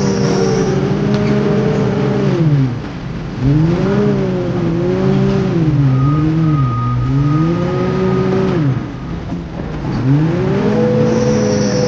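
Heavy earthmoving machine's diesel engine running under varying load, its speed repeatedly rising and falling. It drops away about three seconds in and again near nine seconds, then revs back up each time.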